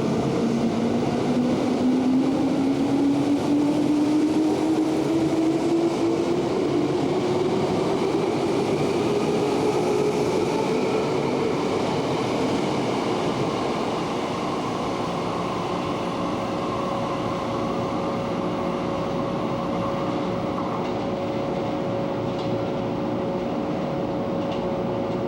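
Electric commuter train pulling away, its traction motor whine rising steadily in pitch over about twelve seconds over wheel and rail rumble, then settling into a steady hum with a held higher tone.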